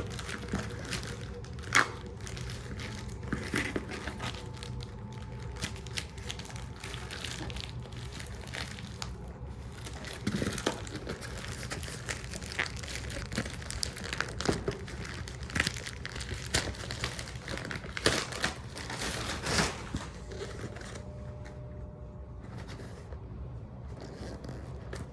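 Packaging being handled and unwrapped: irregular crinkling and tearing with scattered sharp clicks, thinning out over the last few seconds.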